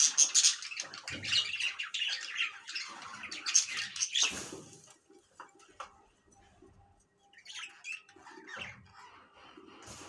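A bird squawking, with loud harsh calls over the first half that fall away to quieter, scattered calls.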